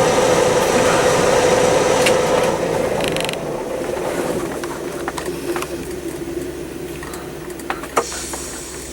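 Steady vehicle running noise with a held hum that fades away over the second half, then a few sharp clicks, the loudest about eight seconds in.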